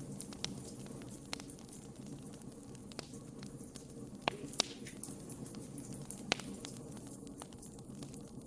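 Wood fire burning in a fireplace: a steady low rumble of flame with irregular crackles and sharp pops from the burning logs, a few louder pops just after the middle.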